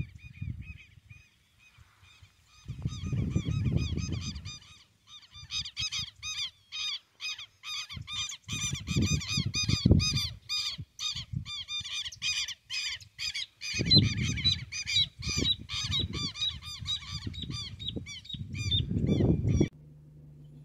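A bird calling over and over in loud, harsh notes, about three a second, starting faint and growing louder a few seconds in, then cutting off suddenly near the end. Gusts of low rumbling noise come and go underneath.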